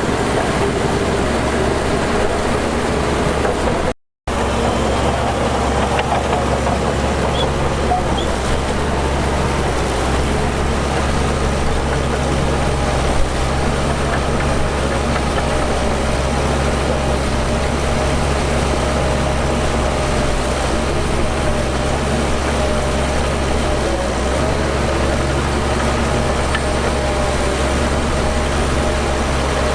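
Heavy diesel engine of earthmoving machinery running steadily, with a low hum and a steady tone above it. The sound cuts out completely for a moment about four seconds in.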